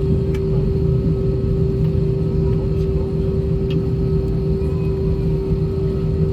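Cabin noise of an Airbus A320-232 taxiing, its IAE V2500 engines at idle: a steady low rumble with a constant hum running through it.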